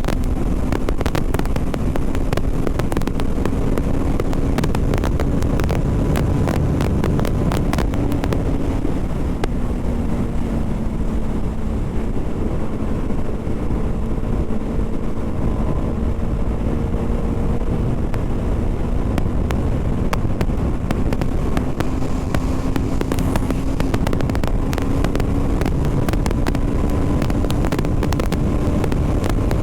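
BMW G 310 RR's single-cylinder engine running steadily at cruising revs while riding, with wind rushing over the helmet microphone. The engine note eases slightly in the middle, then climbs back near the end.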